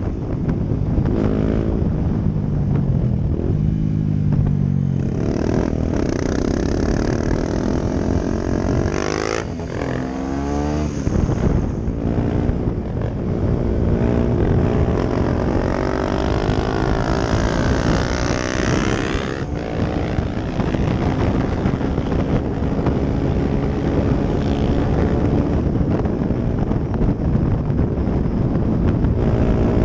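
Honda CRF250L single-cylinder four-stroke running through a Yoshimura aftermarket exhaust, revving and riding past with its pitch rising and falling repeatedly. It settles into a steadier note for the last third.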